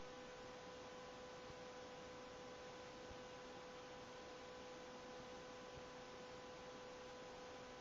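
Near silence: a faint steady hiss with a low, steady hum tone.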